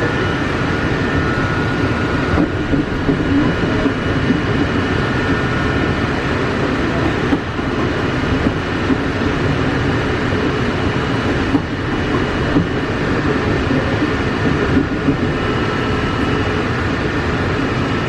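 Walt Disney World monorail train running, heard from inside the carriage: a steady, even rumble and rush of travel noise with faint high whining tones over it.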